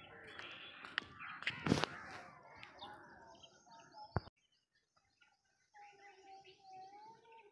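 Birds chirping outdoors over scattered clicks and rustling. After a sudden cut about four seconds in, a long wavering call is held for about two seconds.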